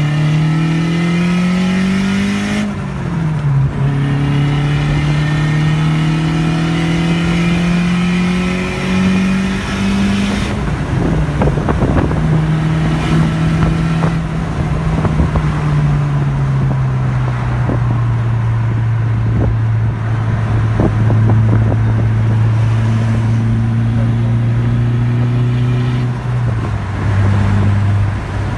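Turbocharged Volkswagen Mk4 Golf engine pulling under acceleration: the engine note climbs, drops sharply at a gear change a few seconds in, climbs again and shifts once more about ten seconds in. Later it eases off and holds a steady lower note as the car cruises, with a scatter of clicks and clatter around the middle.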